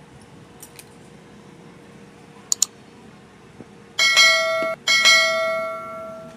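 A few small clicks, then a metallic bell-like ring sounding twice, about two-thirds of the way in. The first ring is cut off short and the second fades away.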